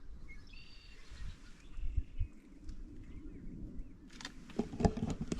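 Birds calling with short high chirps and whistles in the first second or two, over a low uneven rumble, then a cluster of sharp knocks and clicks about four seconds in.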